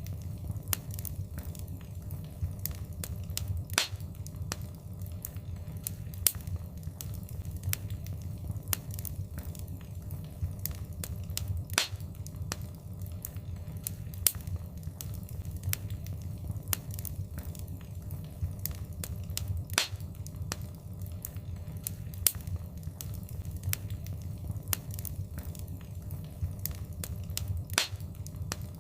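Wood fire crackling: a steady low rumble of burning under frequent sharp pops and snaps, with a louder pop about every eight seconds.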